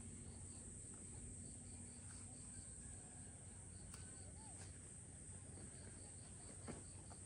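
Faint insect chorus: a cricket chirping in runs of short, evenly spaced high chirps, about four a second, over a steady high-pitched insect hum.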